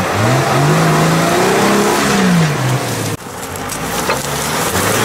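4x4 SUV engine revving under load, its pitch climbing, holding, then falling away. About three seconds in the sound cuts to a second 4x4's engine revving lower and quieter, with a few sharp clicks.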